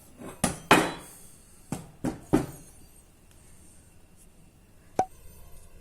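Several short knocks and clatters of washing-machine parts being handled, the loudest about a second in, followed by a single sharp click near the end.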